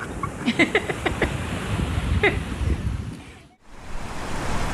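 Wind and surf noise, with a quick string of short high cries about half a second in and one falling cry about two seconds in; the sound drops out briefly near the end.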